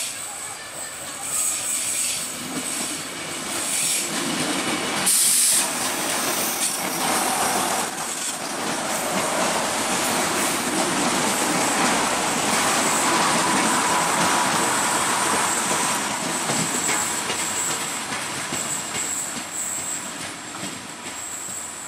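Diesel multiple unit train passing close at speed, its wheels rumbling and clattering over the track, building a few seconds in, loudest through the middle and fading toward the end. A faint steady wheel squeal sounds in the middle of the pass.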